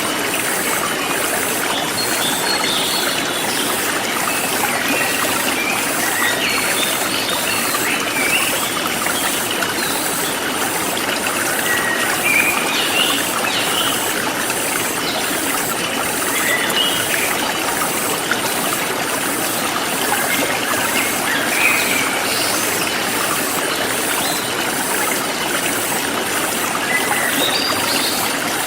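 A forest stream flowing steadily, with birds chirping in short scattered calls and insects calling in a high, evenly repeating pulse over it.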